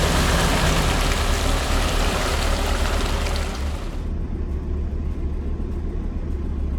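Off-road vehicle engine and driving noise: a steady low rumble with a broad hiss over it that cuts away sharply about four seconds in, leaving the rumble.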